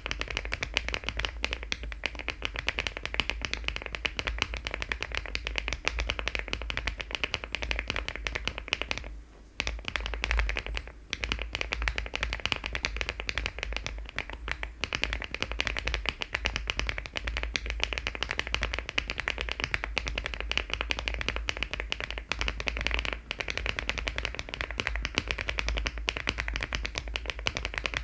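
Continuous fast typing on a LEOBOG Hi75 aluminium-case mechanical keyboard fitted with HMX switches and Cherry-profile keycaps: a dense stream of key clacks, pausing briefly about nine seconds in and again about two seconds later.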